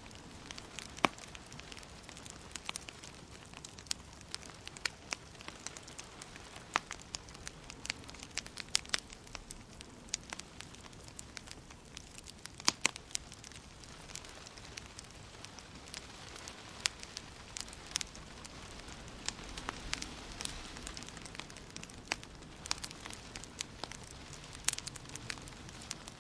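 Wood fire crackling in a fireplace: irregular sharp pops and snaps, a few of them loud, over a steady soft hiss.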